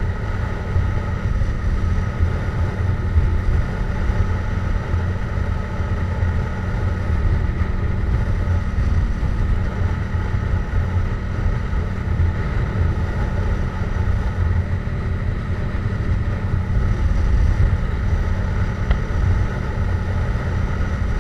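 Yamaha MT-07's parallel-twin engine running through a Jeskap GP aftermarket exhaust at a steady cruising speed, its pitch holding level with no revving, over a heavy low rumble of road noise.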